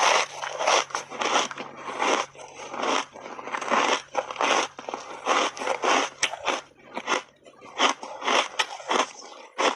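Chunks of ice coated in matcha powder being bitten and chewed close to the microphone: a steady run of crisp crunches, about two a second.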